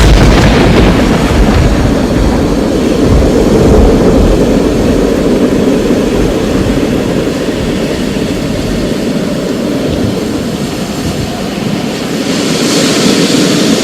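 Thunderstorm: a clap of thunder at the very start turns into a deep rolling rumble that fades over about nine seconds, over steady rain. Near the end the rain's hiss grows brighter.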